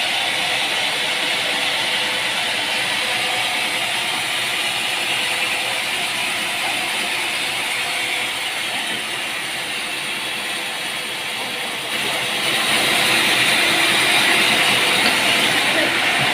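Steady mechanical running noise, louder from about twelve seconds in.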